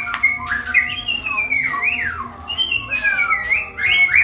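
Male white-rumped shama singing: a continuous run of clear whistled phrases that glide up and down in pitch.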